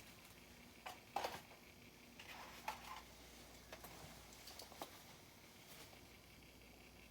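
Near silence with a few faint scattered clicks and taps, the loudest a little over a second in, as a small diecast toy car is handled.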